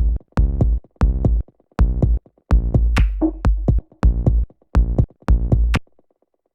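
Experimental techno loop built from Ableton Live 10's own devices playing: short, pitched, bass-heavy drum-machine hits about two a second, with sharp clicks on top. It stops about six seconds in.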